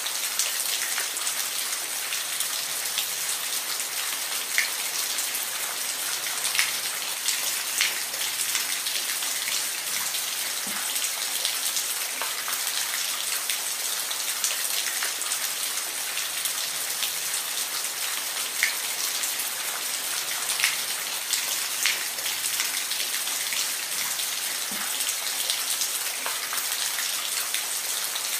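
Steady rainfall: a dense, even hiss of rain with scattered louder drops ticking close by.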